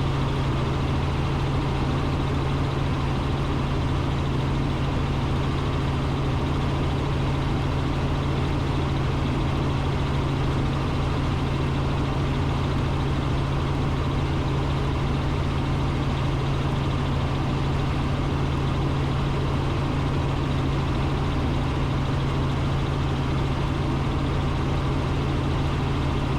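Robinson R44 Raven II helicopter in steady cruise flight heard from inside the cabin: the six-cylinder piston engine and rotors make a steady, even drone with a strong low hum.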